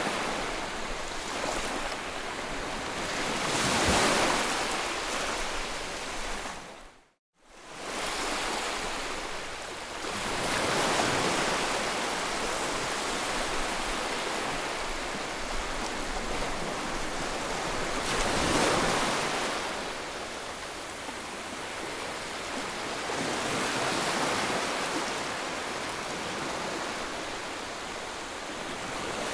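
Ocean surf: waves breaking and washing in, swelling and easing every six or seven seconds. About seven seconds in the sound fades out completely for a moment and comes straight back.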